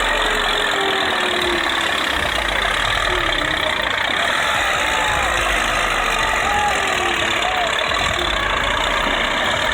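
Tractor engine running steadily, with a few voices faintly over it.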